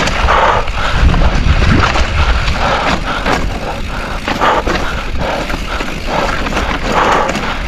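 Mountain bike riding a dirt trail: tyres running over rough ground, with frequent rattles and knocks from the bike over bumps and a steady low rumble of wind on the microphone.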